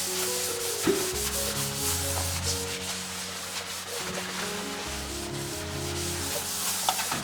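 Continuous scrubbing or rubbing noise, a dense hiss with many quick strokes, over soft background music.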